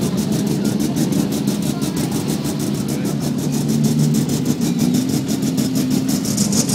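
Rally car engine idling steadily, its pitch wavering slightly.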